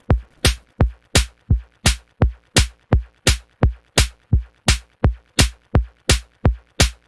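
Electronic music stripped down to a lone drum-machine kick beat, about three evenly spaced thumps a second, each with a low tone that drops in pitch.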